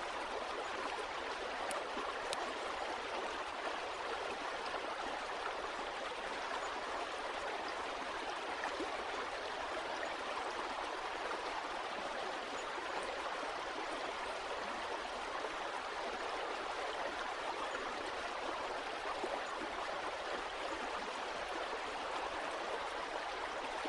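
Running water from a stream or brook, a steady, even flow with no breaks.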